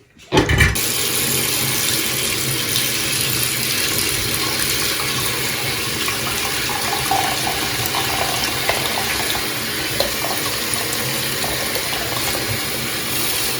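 Water tap turned on about half a second in, then running steadily into a sink while something small is rinsed under it.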